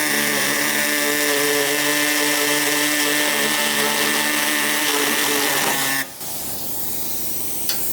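Handheld power tool running at a steady pitch with a hissing edge, stopping abruptly about six seconds in.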